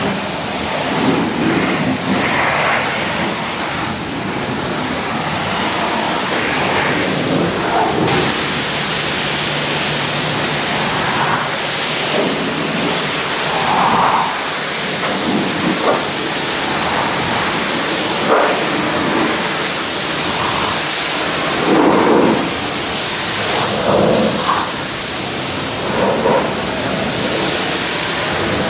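Pressure washer spray hitting a truck's bodywork, a steady loud hiss and splatter whose tone shifts as the jet moves over different surfaces.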